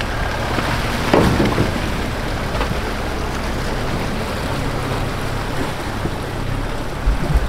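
A 4x4 off-road vehicle's engine running as it drives the trail, under a steady rushing noise, with a short knock about a second in and a couple more near the end.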